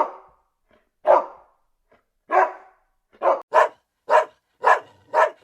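A dog barking: about eight single barks, spaced about a second apart at first and coming quicker in the second half.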